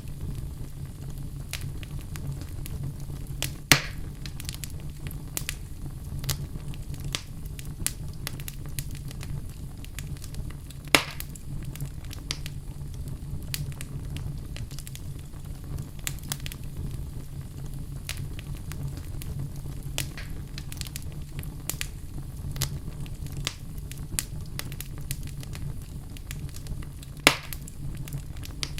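Wood fire burning in a fireplace: a steady low rumble of flames with continual small crackles, and three louder pops at about four, eleven and twenty-seven seconds in.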